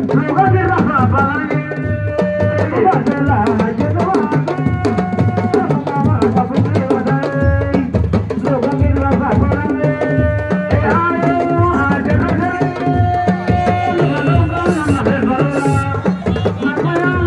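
Music of hand drums with singing voices over them, the drumming dense and continuous.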